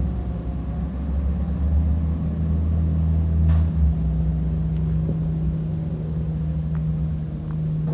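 Garbage truck engine running with a steady low hum and rumble; the deepest rumble eases off about four seconds in.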